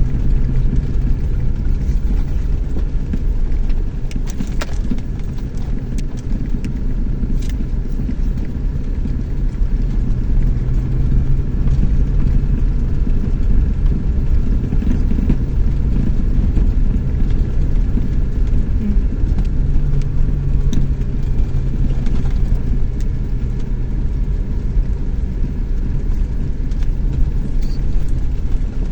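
Chevrolet S10 pickup driving on the road: steady engine hum and road rumble.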